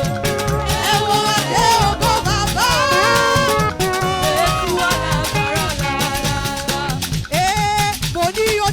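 Live church praise band playing an upbeat dance groove: dense, steady drums and percussion under sustained and gliding melodic lines, with some singing in the mix.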